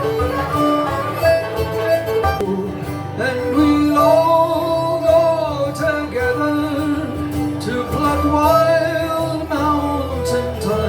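Live acoustic folk band playing a Scottish tune: 12-string guitar and banjo accompaniment under a held, gliding melody line.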